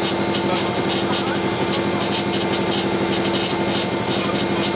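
Rally car's engine idling steadily at a standstill, heard from inside the cabin: an even low rumble with a fast, regular pulse.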